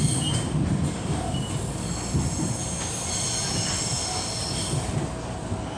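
Passenger train heard from inside the carriage: a steady low rumble of the running gear, with a high-pitched steel wheel squeal in several tones that fades and comes back.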